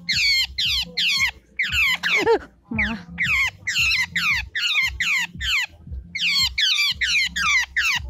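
A bird caught in a nylon net giving rapid, harsh distress calls, each one sweeping down in pitch, about three a second in runs broken by short pauses.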